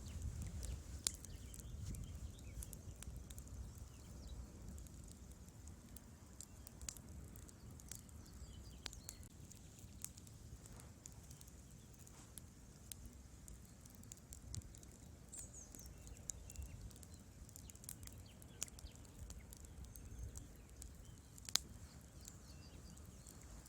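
Wood fire burning in a fireplace: irregular sharp crackles and pops from the burning logs over a low rumble of the flames. Two pops stand out as louder, about a second in and near the end.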